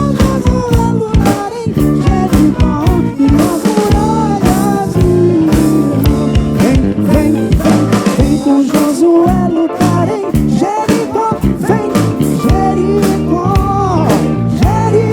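A live soul band playing, with drum kit, electric bass and chords under a lead melody that bends and slides in pitch.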